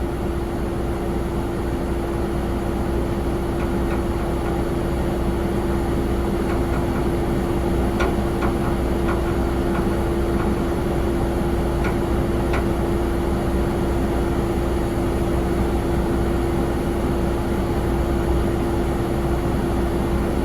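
Jet airliner running steadily: one constant hum with a few weaker tones over a low rumble, and a few faint clicks near the middle.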